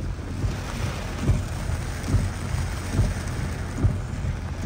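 Rain heard from inside a moving car: a hiss of rain over a steady low road rumble, with a soft thump recurring about once a second.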